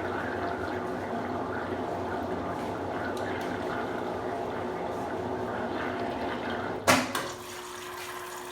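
Consul Super Cargo 8 kg washing machine with a steady rush of water. About seven seconds in there is a single loud click as the machine moves on from the spin toward the first rinse fill, and a quieter steady hum remains after it.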